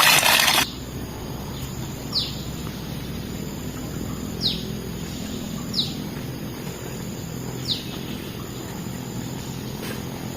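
A bird gives four short, sharp chirps, each sliding downward in pitch, spaced a couple of seconds apart over a steady low background rumble. At the very start, running spring water is heard briefly before cutting off abruptly.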